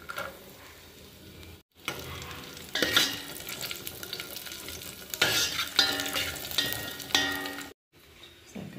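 Cashews and raisins frying in a steel pot with a steady sizzle, while a steel spoon stirs them, scraping and clinking against the pot several times.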